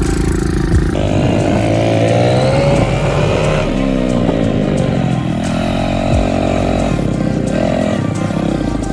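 Small kids' dirtbike engine revving up and down as it is ridden, its pitch rising and falling several times.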